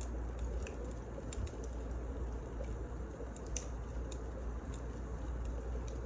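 Firewood burning in a fireplace, crackling: irregular sharp snaps and pops over a steady low rumble.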